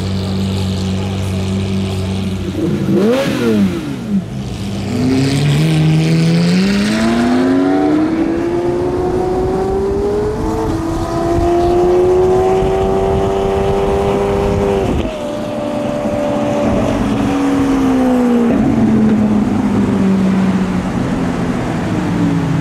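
Supercar engine running steadily, blipped once briefly, then pulling hard with its note climbing for about ten seconds before cutting off suddenly, after which the note settles and falls away.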